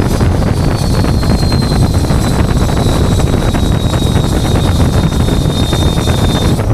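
Tow truck on the move: a steady, loud rumble of engine and road noise, with wind buffeting the microphone. A thin high whine slides down in pitch, holds, and cuts off near the end.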